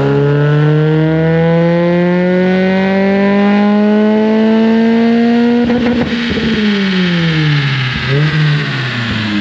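Mazda Miata NB2 1.8-litre VVT four-cylinder with a free-flowing aftermarket exhaust, climbing steadily in revs under load on a chassis dyno for about six seconds, then dropping back down as the pull ends.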